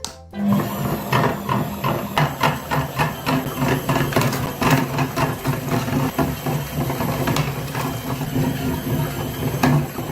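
A small motor running with a steady low hum and a rapid, uneven clatter of clicks. It starts abruptly just after the music stops.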